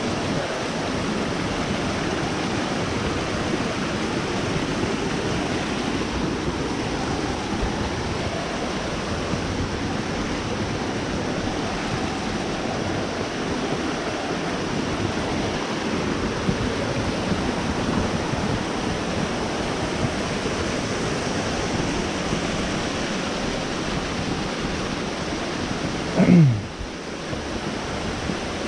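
Steady rushing of a waterfall's falling water. About two seconds before the end, a short loud tone sweeps sharply down in pitch.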